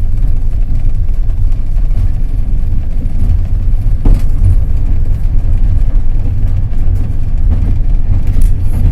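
Passenger train running along the track: a steady, loud low rumble of wheels on rails, with a faint click about four seconds in.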